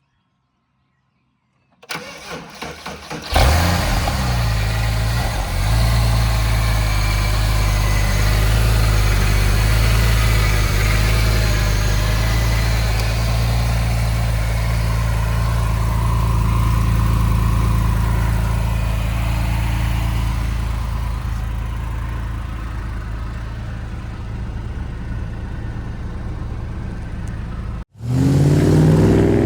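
Porsche 911 997 Targa 4's 3.6-litre flat-six is cranked by the starter for about a second and a half, catches with a brief flare of revs, and then idles steadily for over twenty seconds. Near the end, after a cut, the engine revs with a rising pitch.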